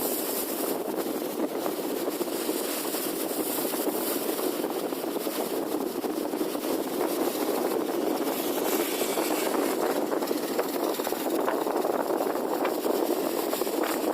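Motor fishing boat's engine running steadily, a constant drone without change.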